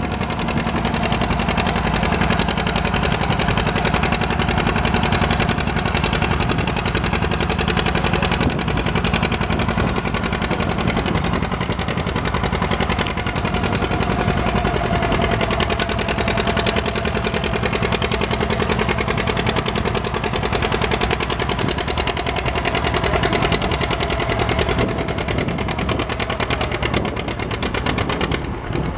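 Antique farm tractor engine running steadily with a rapid, even exhaust beat, easing off slightly near the end.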